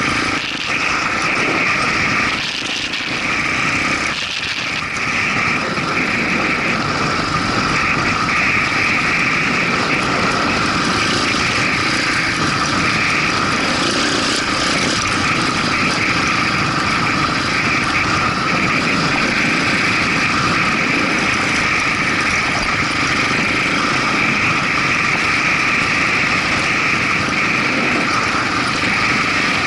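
Motorcycle engine running as a steady, unbroken drone at constant speed.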